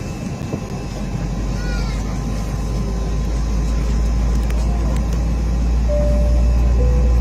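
Steady low drone inside the cabin of an Airbus A320 airliner standing before taxi, growing slightly louder, with a few faint squeaky glides about two seconds in and two short tones, the second lower, near the end.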